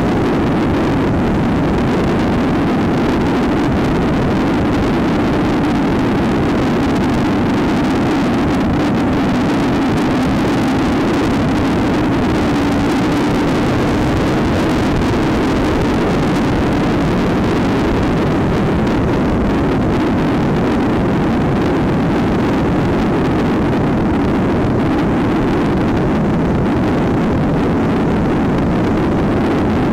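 Trail motorcycle engine running steadily under way, with wind and road noise on the camera microphone.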